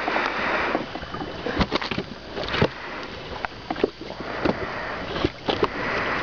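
Splashing water with scattered knocks and clicks around a small fishing boat, a burst of splashing at the start and again near the end.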